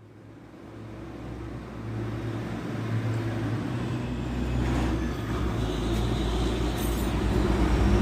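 Suzuki Baleno's exhaust running through an aftermarket HKS-style muffler with the centre muffler removed. It is a steady low rumble that grows gradually louder.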